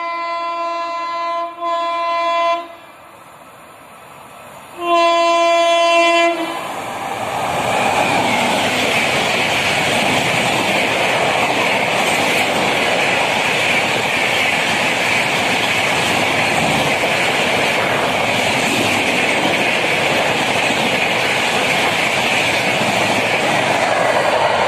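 WAP7 electric locomotive's horn sounding a long single-tone blast with a brief break, then another blast about five seconds in. An express train of LHB coaches then passes at speed with a steady loud rush and wheel clatter on the rails.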